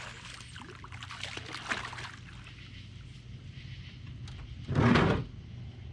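Water sloshing and trickling around a small fishing boat while a caught fish is handled, over a steady low hum, with a louder short burst about five seconds in.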